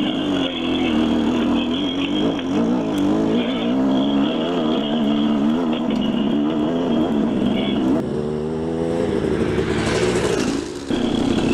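Dirt bike engine revving unevenly under load on a rocky hill climb in first gear, its pitch rising and falling again and again as the throttle is worked. It drops briefly near the end, then picks up again.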